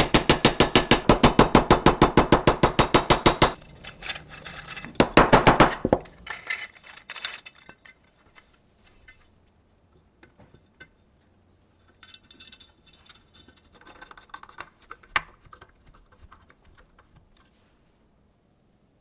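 Rapid, even clicking, about six a second, that stops about three and a half seconds in. It is followed by a few seconds of irregular clatter, then scattered faint taps.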